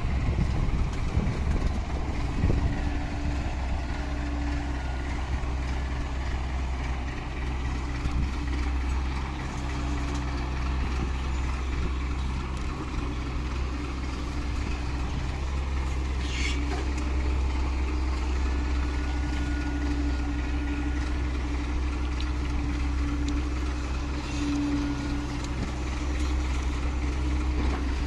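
Large diesel dump truck engine running steadily at idle, with a deep even hum; the low rumble is rougher for the first couple of seconds.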